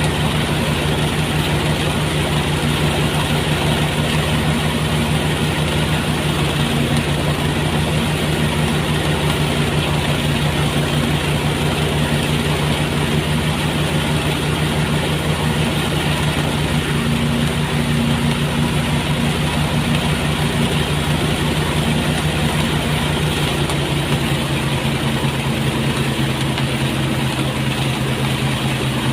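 Motorised rice threshing machine running steadily: a continuous engine hum under a dense rattling noise from the threshing drum. Its pitch drops slightly near the end.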